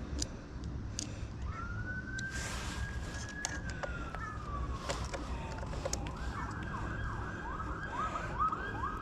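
Emergency vehicle siren: a slow wail rising and then falling, switching to a rapid yelp about six seconds in. A few light clicks and taps sound alongside it.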